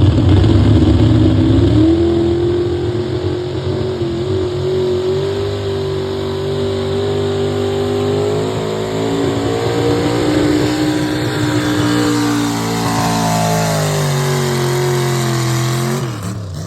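Engine of a pulling vehicle running hard at high revs under load. Its pitch climbs about two seconds in, holds, then sags over the last few seconds as the run slows.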